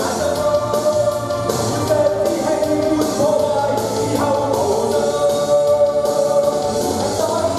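A man singing a pop-rock song over rock-style accompaniment, holding long sung notes.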